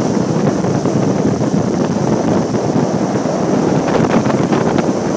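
Motorboat under way: loud, steady wind rushing over the microphone, with the boat's motor running beneath it.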